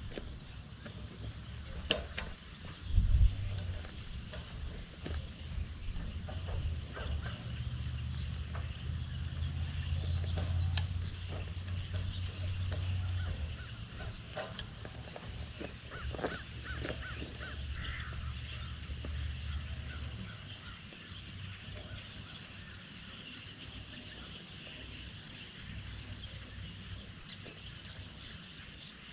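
Outdoor field sound: a steady high insect drone that swells and fades every few seconds, over a low steady engine hum, with two sharp knocks about two and three seconds in.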